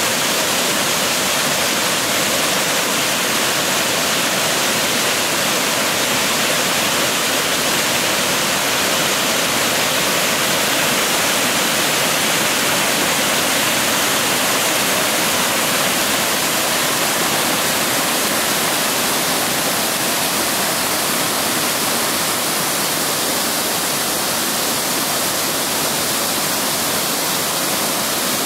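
Steady rush of a waterfall, river water cascading over rocks.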